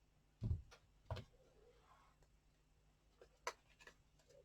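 A few faint, short taps and knocks of small objects being handled on a table, three spaced-out clicks in an otherwise quiet room.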